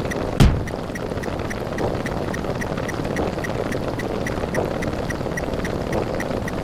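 A dense, steady wall of many layered sound effects playing at once, with rapid high ticks about five a second and one loud low thump about half a second in.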